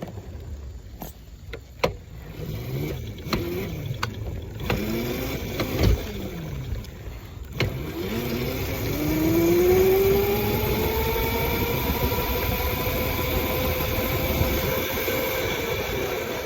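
Small motorbike's motor pulling away: a few knocks and clicks, then about halfway through its pitch rises smoothly as it speeds up and settles into a steady run.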